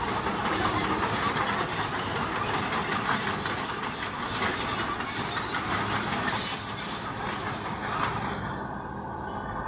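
Bulldozer's diesel engine running steadily under load, with the clanking clatter of its crawler tracks.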